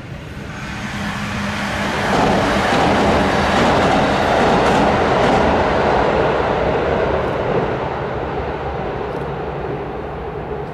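Electric train crossing a railway bridge: the rumble of wheels on rail builds up in the first two seconds, stays loud for several seconds with a few faint rail-joint clicks, then slowly fades as it moves away.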